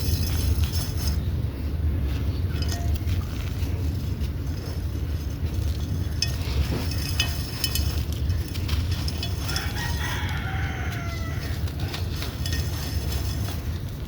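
A rooster crows once, about ten seconds in, a long call falling in pitch, over a steady low rumble.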